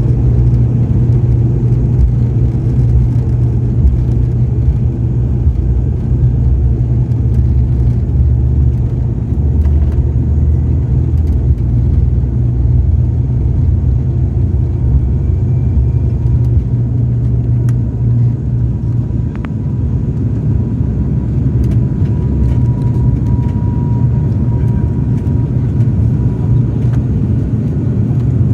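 ATR 72 twin turboprop engines and propellers running at high power, a loud steady low drone with a faint thin tone joining in during the second half.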